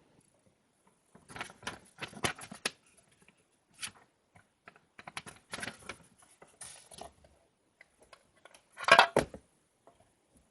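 Hands handling small objects on a tabletop: irregular runs of light clicks and rustles, with the loudest cluster about nine seconds in.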